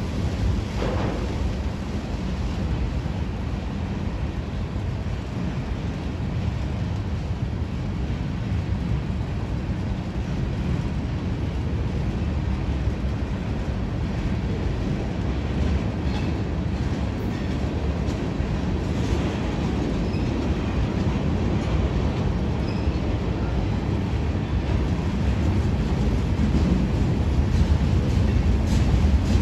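Freight train cars rolling past on the rails: a steady low rumble of wheels on track, growing a little louder near the end.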